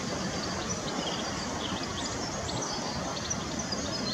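Faint, brief high bird chirps scattered over steady outdoor background noise.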